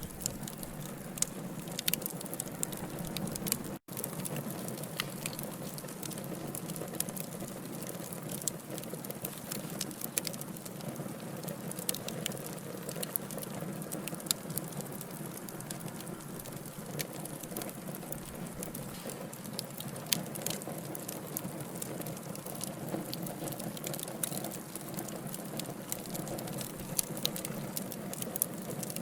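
Wood fire burning: a steady hiss with frequent sharp crackles and pops from the logs. The sound cuts out for an instant about four seconds in.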